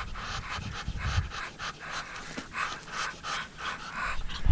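A runner breathing hard and fast while running, rhythmic panting breaths about three a second.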